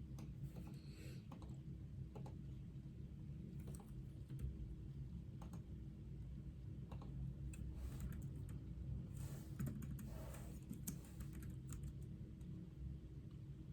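Computer keyboard typing: irregular keystrokes, sparse at first and coming in a busier run about nine to eleven seconds in, over a steady low hum.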